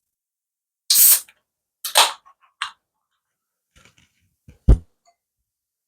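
An aluminium beer can opened by its ring-pull: a sharp crack with a short hiss about a second in, followed by a few more short handling sounds and a dull knock near the end.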